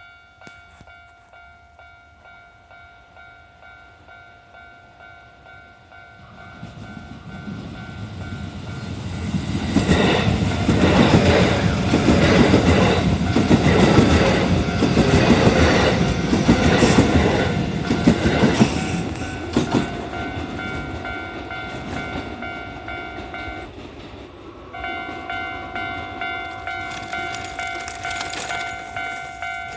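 Japanese level-crossing warning bell ringing in an even rhythm of about two strokes a second, as a Kintetsu 9820 series electric train rushes through the crossing with its wheels clattering over the rail joints for about ten seconds, with two brief high squeals near the end of the pass. After the train has gone the bell keeps ringing, stopping briefly and then starting again louder near the end.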